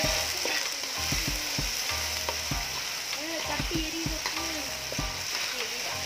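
Chopped tomatoes sizzling in hot oil in an aluminium kadai, stirred with a metal slotted ladle that scrapes and knocks against the pan. Under the scraping, a steady frying hiss carries on throughout.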